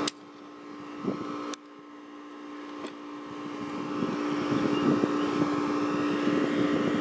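Harley-Davidson V-Rod's V-twin starting up and running through a custom hand-made drag exhaust, the rumble building louder over the first few seconds and then holding steady. The exhaust is very loud for a V-Rod.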